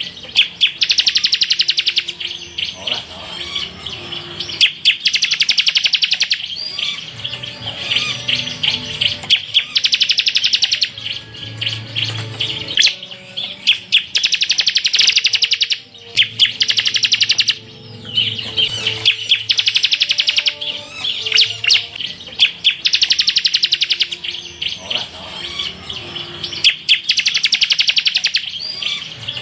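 Ciblek (a prinia songbird) singing a rapid-fire, chattering song of fast trilled 'shots': loud high bursts of one to two seconds each, repeated with short pauses.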